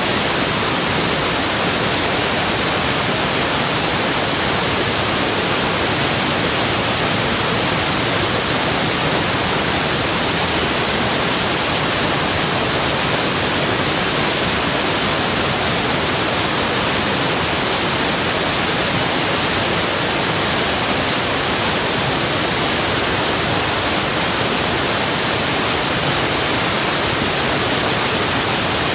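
Steady rush of flowing water: an even, unbroken hiss that spreads across the whole pitch range and stays at one level throughout.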